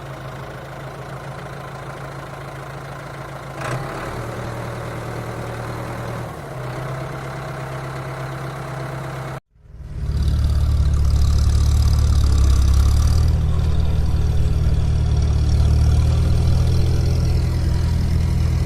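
A heavy vehicle's diesel engine running at a steady speed. The sound drops out for a moment about nine seconds in, then comes back louder and closer, still running steadily.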